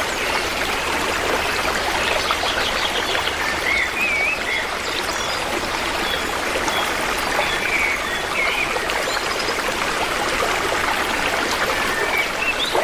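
Stream water running steadily, with short high-pitched chirps now and then over it.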